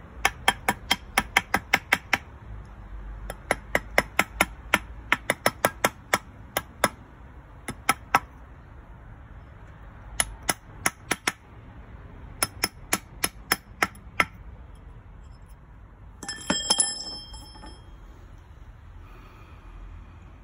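Hand hammer tapping a metal ring on a steel ring mandrel, in runs of quick even blows at about five a second with short pauses between. About three-quarters of the way through, a brief ringing metallic clatter.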